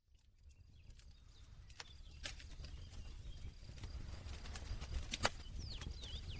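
Campfire crackling: scattered sharp pops and snaps of burning wood over a low rumble, fading in from silence at the start, with the loudest pop about five seconds in. A few short high chirps come near the end.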